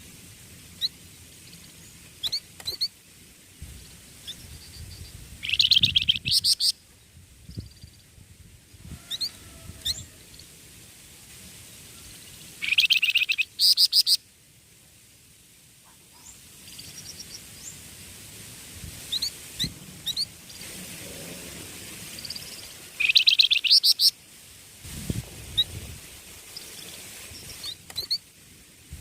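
A young songbird singing: scattered short high chirps and whistled notes, broken by loud, rapid rattling trills about six, thirteen and twenty-three seconds in.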